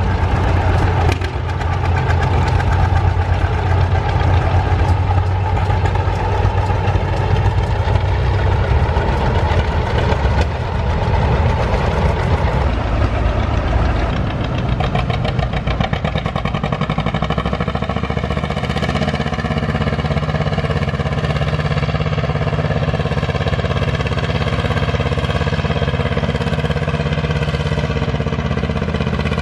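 An engine running steadily throughout; about two-thirds of the way in its note settles into a steadier, more even hum.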